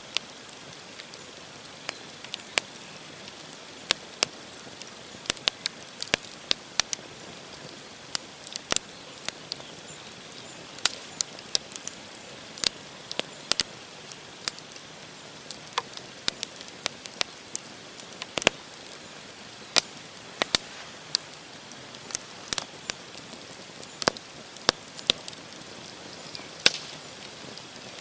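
Wood campfire burning, with the logs giving off frequent irregular sharp crackles and pops over a steady hiss from the flames.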